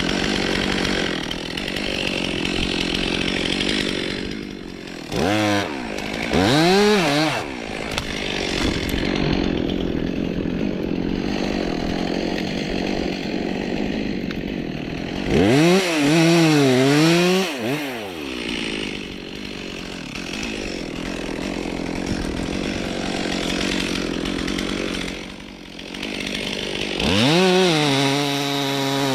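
Stihl MS 362 C two-stroke chainsaw cutting through birch wood under load. Its engine note wavers and comes through clearly three times, about five seconds in, about sixteen seconds in and near the end, between stretches of cutting.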